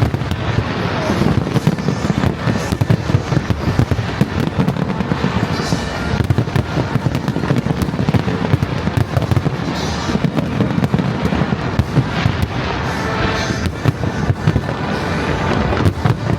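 Aerial fireworks display: shells bursting in a dense, unbroken barrage of booms and bangs, with flurries of crackling about six, ten and thirteen seconds in.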